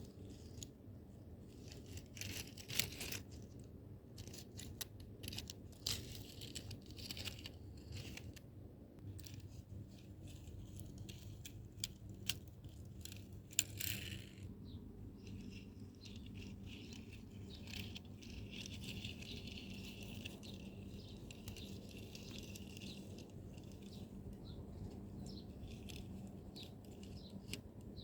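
Scattered light clicks, taps and rattles of small toy trucks being handled and moved about, over a faint steady hum.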